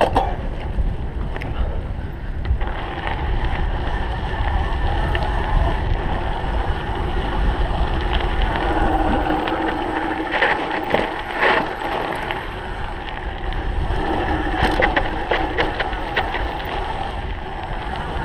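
Wind buffeting the microphone over the rumble and clatter of a cyclocross bike being raced over rough ground, with scattered knocks from bumps.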